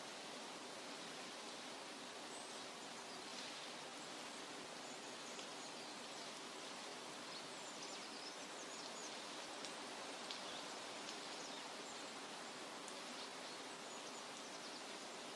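Steady nature-ambience hiss like rain or running water, with faint short high chirps and ticks scattered through it.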